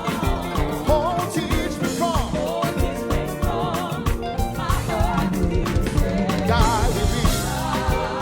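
Live gospel band playing a hymn: a steady drum beat with bass and keys under a lead melody with wide vibrato.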